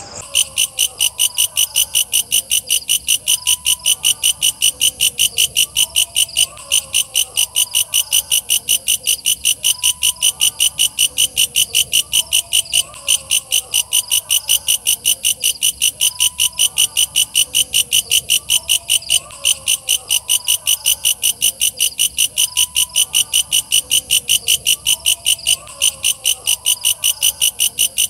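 Walang kecek grasshopper singing: a fast, even train of high, buzzy chirps, about four a second, with three brief breaks.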